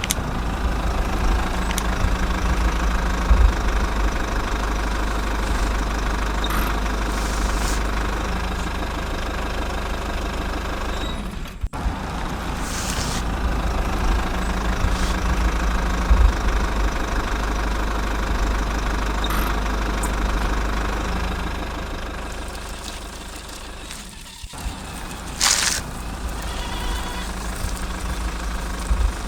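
Diesel truck engine sound running steadily at a low rumble, broken by short cuts about twelve and twenty-four seconds in.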